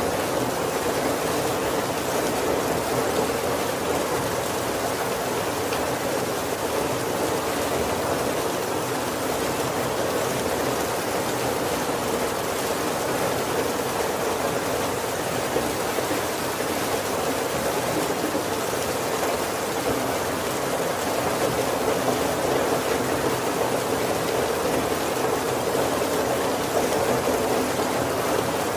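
Heavy rain falling steadily on the roof of a wooden carriage, heard from inside as an even, dense patter.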